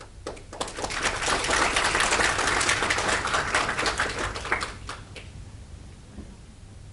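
Audience clapping: many hands applaud at once, swelling quickly after the start and dying away about five seconds in.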